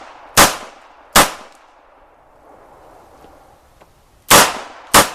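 Rossi .357 Magnum revolver firing .38 Special rounds: two sharp shots under a second apart, a pause of about three seconds, then two more in quick succession near the end.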